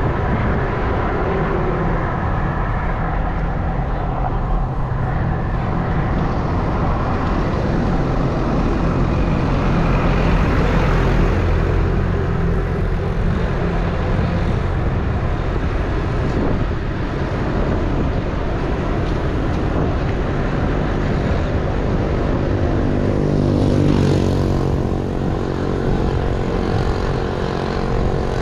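A vehicle engine drones steadily under a rush of wind noise, with a clearer, pitched engine note coming through from about two-thirds of the way in.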